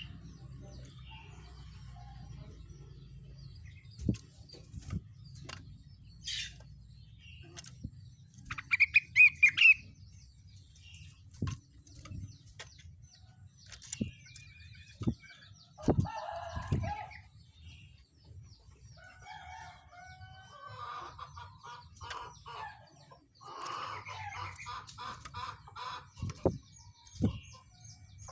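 Rengganis songbird singing in short bursts of fast, high trills, the loudest about nine seconds in, between scattered single chirps. Sharp knocks sound now and then, and lower clucking calls repeat in the second half.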